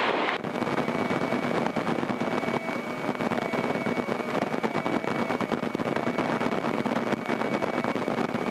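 Single-engine Grumman light airplane's piston engine running steadily at low taxi power, an even drone heard from inside the cockpit. A thin steady whine sits above it from about half a second in.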